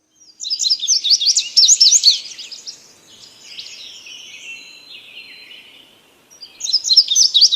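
Small birds chirping and singing: a fast flurry of high chirps for about two seconds, a quieter stretch of softer calls and a thin whistle, then another flurry of rapid chirps near the end.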